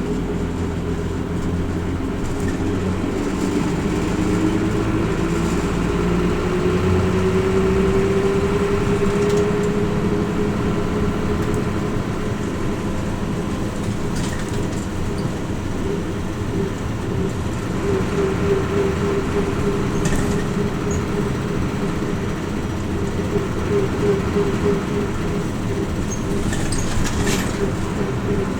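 Hino Rainbow RJ (P-RJ172BA) route bus running, heard from inside the cabin. The engine note rises steadily over the first ten seconds or so as the bus picks up speed, then holds steady while cruising, with a few light clicks and rattles in the second half.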